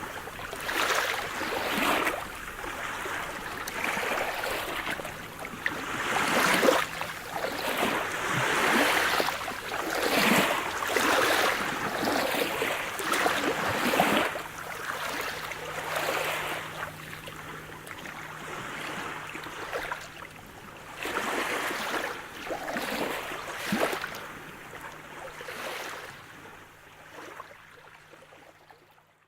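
Sea waves splashing and washing against the shore, surging in uneven swells every second or two, with a faint steady low hum underneath. The water fades away toward the end.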